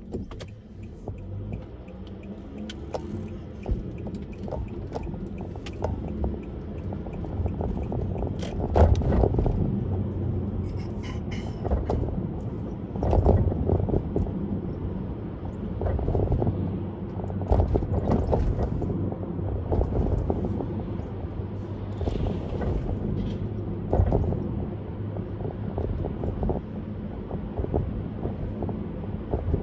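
Car driving on a road, a steady low rumble of tyre and road noise with repeated thumps as the wheels hit bumps and joints in the pavement.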